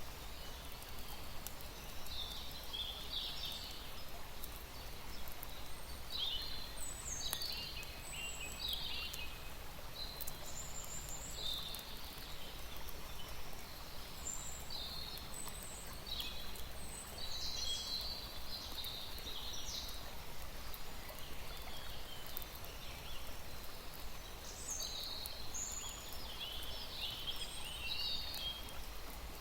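Small birds singing in short, high chirping phrases that recur every second or two, over a low steady background rumble.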